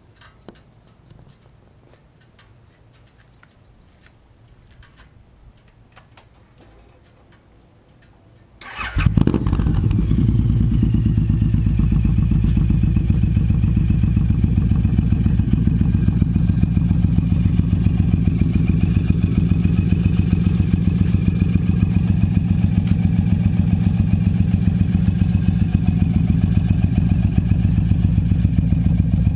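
2008 Suzuki C109R's big V-twin starting about nine seconds in, after a few faint clicks, then idling steadily with an even pulse through a G-Man G-Pipe aftermarket exhaust.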